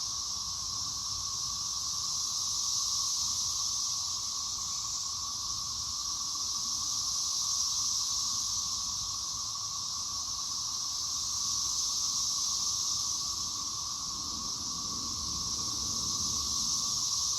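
Chorus of 13-year periodical cicadas (Brood XIX): a dense, continuous drone with a lower steady tone under a stronger high-pitched hiss, gently swelling and fading in loudness.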